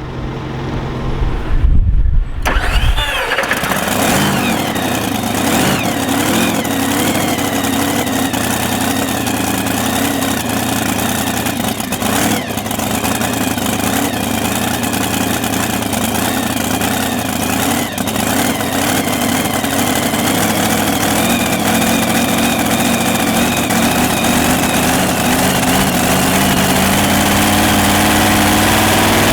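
Supercharged engine of a modified pulling tractor cranking for about two seconds, then catching and running steadily at a fast idle, its pitch wavering slightly.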